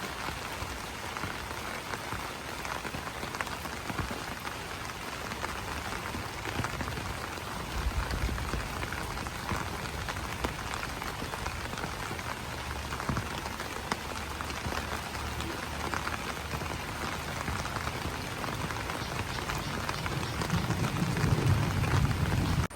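Steady rain falling on banana leaves: a dense, even hiss with many single drops ticking on the leaves. A low rumble swells about eight seconds in and again, louder, near the end.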